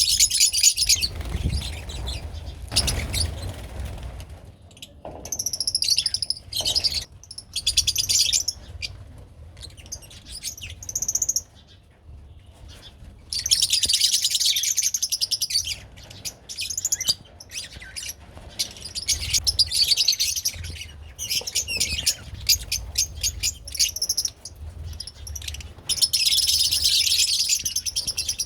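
A group of lovebirds chattering with shrill, high-pitched calls in bursts of a second or more, loudest about halfway through and again near the end.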